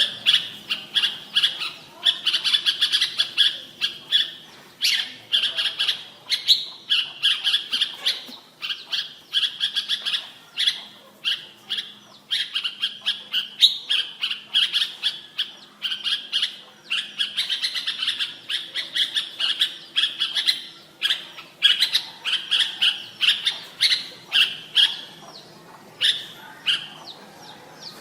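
Red-whiskered bulbul singing: short, bright whistled phrases repeated over and over with brief pauses between them.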